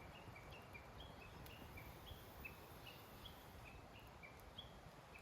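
A bird calling with a steady run of short, high chirps, about three a second, each dipping slightly in pitch, over a faint outdoor hush.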